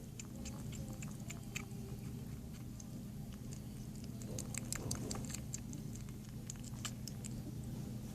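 Kitten eating: irregular small wet clicks and smacks of chewing, over a steady low hum.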